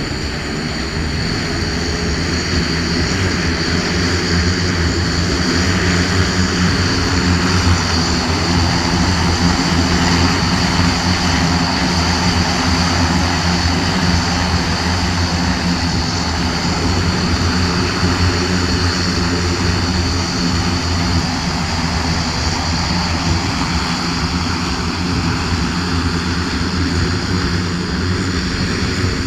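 Engine and rotors of a small one-man flying machine running steadily. A low engine drone with a constant high whine over it, getting a little louder through the middle and easing near the end.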